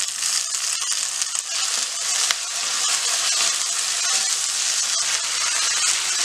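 Buttermilk-soaked banana flower florets sizzling as they fry in hot gingelly (sesame) oil in a clay pot, a steady hiss. A wooden spatula stirs them, adding scattered scraping clicks against the pot.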